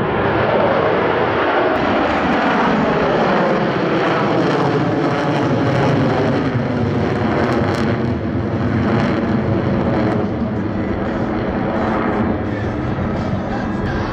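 Four Boeing F/A-18 Super Hornet jets flying a slow loop in formation with landing gear and tailhooks down; their twin turbofan engines make a loud, continuous jet sound, with tones that fall in pitch as the jets pass.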